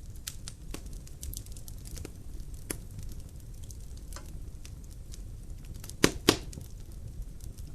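Wood logs burning in a fireplace: a steady low rumble of the fire under irregular crackles and sharp pops, with the two loudest pops close together about six seconds in.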